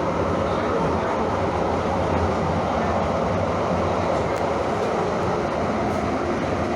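Steady running noise of a moving train, an even rumble with no distinct knocks or squeals.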